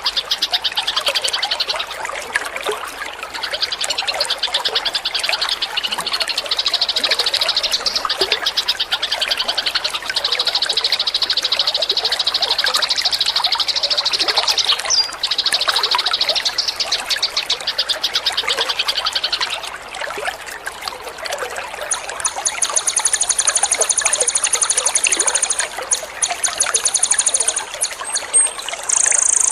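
A songbird's rapid, machine-gun-like trill ('tembakan') over steadily trickling water. The trill comes in long stretches with short breaks for most of the time, then about two-thirds of the way in gives way to a higher, thinner trill.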